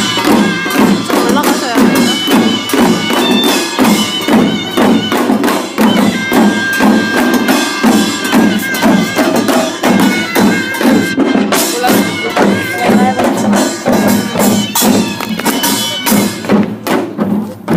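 Korean pungmul band playing a fast, dense drum-and-gong rhythm with a taepyeongso shawm carrying the melody. The playing breaks off about a second before the end.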